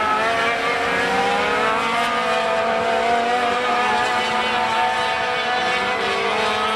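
Several race sport trucks' engines running together on the track, their pitches overlapping and slowly shifting up and down.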